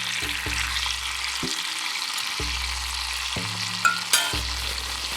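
Steady sizzling of food frying in a cast iron skillet, with two sharp clicks about four seconds in. Soft music with slow, changing low notes plays underneath.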